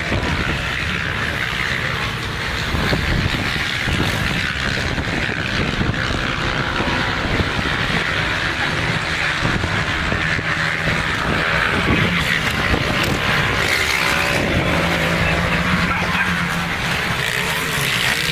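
Motocross dirt bike engines running and revving, their pitch rising and falling.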